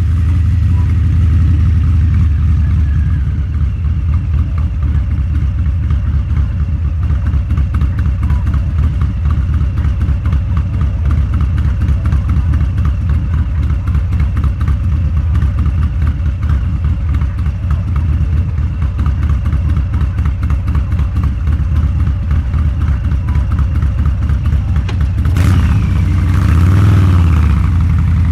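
Harley-Davidson Low Rider's 129 cubic inch V-twin running through a Two Brothers Racing exhaust while riding at a steady pace, its firing pulses even and low. Near the end the sound briefly swells and shifts.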